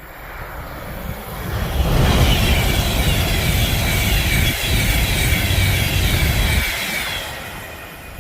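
A train passing through the station at speed without stopping. Its low rumble and rushing hiss build up over the first two seconds, hold loud for about five seconds, and die away near the end.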